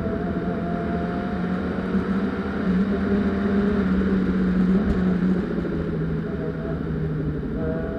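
Peugeot 206 1.6 cup rally car's four-cylinder petrol engine running at steady high revs under load, with a haze of road and wind noise. The engine note dips slightly just past halfway and rises again near the end.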